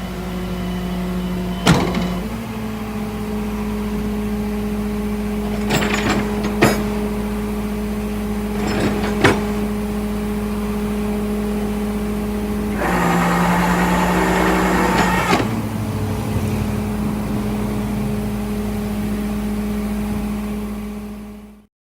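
Motor vehicle running steadily with a pitched hum that steps up slightly about two seconds in. A few sharp clicks or knocks come through, and a rougher, noisier stretch lasts about two seconds past the middle before the steady hum returns. The sound cuts off suddenly at the end.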